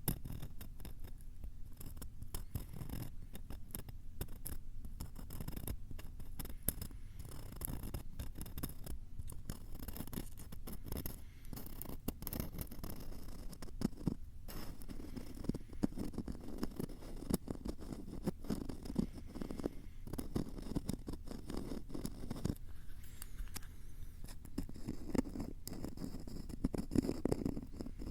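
Rapid, dense scratching and tapping made right against a Tascam recorder's microphones for ASMR, with harsh close-up rustles and clicks. It grows fuller and louder in the second half.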